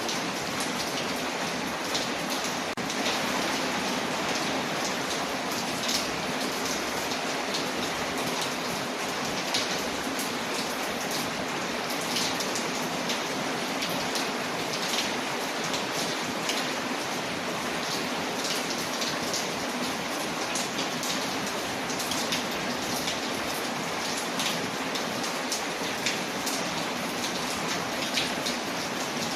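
Steady rain falling on a window, layered with a crackling fireplace; a constant hiss with scattered sharp ticks and pops throughout.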